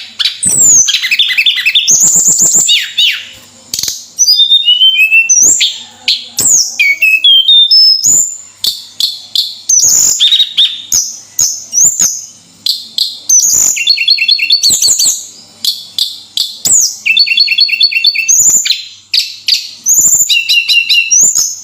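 Tledekan gunung songbird singing vigorously: a nearly unbroken run of sharp high chirps, falling whistles and fast trills of repeated notes.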